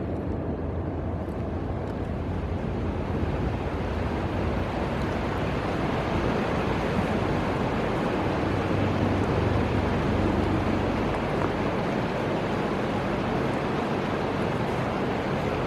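Steady rushing noise of a broad, fast-flowing river, with wind buffeting the microphone.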